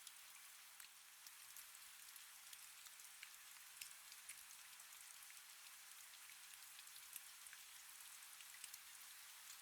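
Faint, steady rain: an even hiss with many small, separate drop ticks scattered through it.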